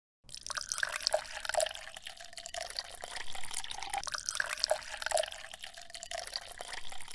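Water trickling and dripping, with small irregular splashes; it starts abruptly.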